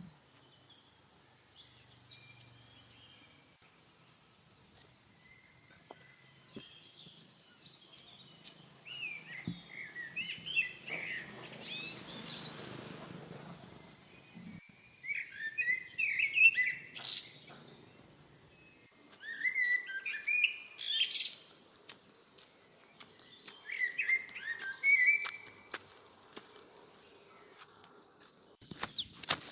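Birds chirping in several short bouts of quick, high notes, with quiet between them and a brief rushing noise under the middle bout.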